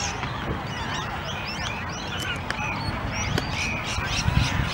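Birds chirping and calling, with many short, high chirps overlapping throughout, over a low rumble.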